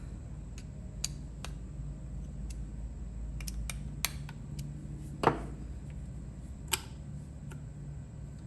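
Irregular sharp metallic clicks and taps from a vintage Lowell Corporation 5/8-inch square-drive ratchet as its pawl mechanism is worked and adjusted, the loudest about five seconds in. A steady low hum runs underneath.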